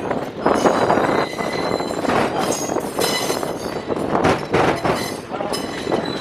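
Passenger train running along the track: a loud, continuous rattling clatter of wheels and coaches, with thin high-pitched wheel squeals coming and going.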